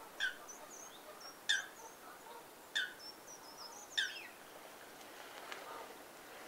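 Birds calling: four loud, short, sharp calls, about a second and a quarter apart, with thin high chirps between them, fading out after about four seconds.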